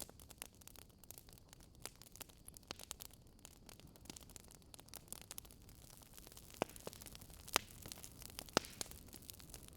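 Fireplace fire crackling: a soft steady hiss dotted with quick irregular crackles, and a few louder pops in the second half.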